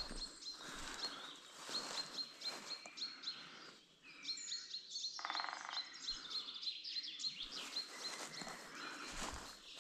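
A small bird chirping, short high notes repeated two or three times a second, over the rustle of footsteps through vegetation that pause briefly about four seconds in. About five seconds in, a short, fast rattling trill sounds at a lower pitch.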